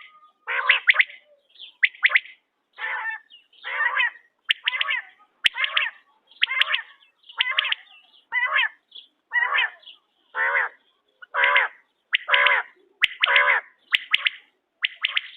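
Quail (bater) calling: a steady series of short, harsh, rasping notes, about one to two a second, with a few faint clicks among them.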